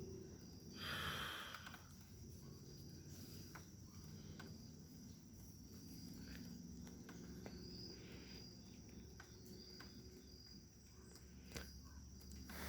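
Faint night-time insects, most likely crickets, making a steady high-pitched chirring. A short breathy rush comes about a second in, and scattered small clicks follow.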